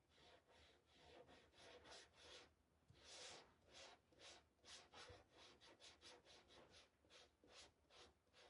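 Faint, rhythmic strokes of a paintbrush brushing paint across a sign's surface, about three strokes a second.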